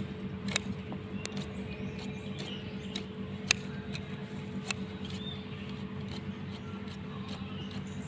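Small birds chirping faintly now and then over a steady low hum, with scattered sharp clicks; the loudest click comes about three and a half seconds in.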